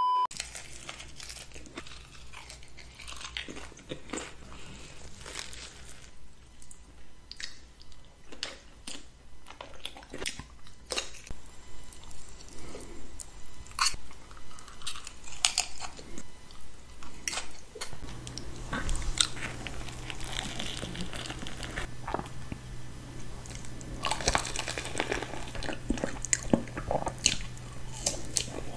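Close-miked ASMR eating sounds: crisp, irregular crunching bites and moist chewing of salad and fried food. A split second of a steady test-tone beep comes right at the start.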